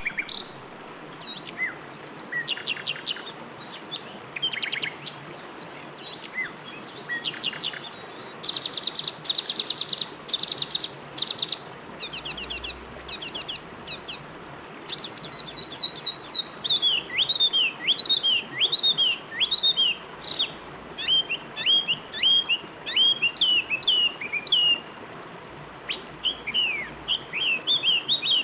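Several birds singing and calling over a steady rush of flowing water. Rapid high trills come in the first half, then a long run of quick downward-sliding chirps.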